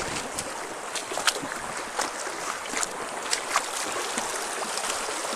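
Shallow stream water rushing over stones, with frequent short splashes and clicks from people wading through it.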